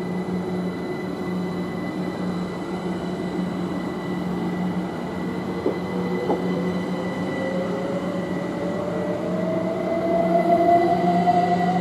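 Class 387 electric multiple unit pulling away, its traction motor whine rising steadily in pitch as it accelerates, over a steady electrical hum. A couple of brief clicks come around the middle.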